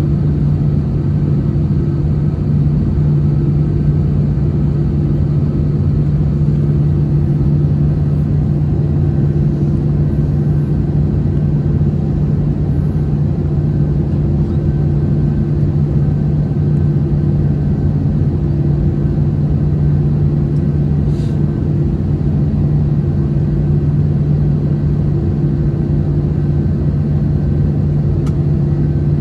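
Steady cabin drone inside an Airbus A321-211 airliner: engine hum with a constant low tone over the rush of air past the fuselage.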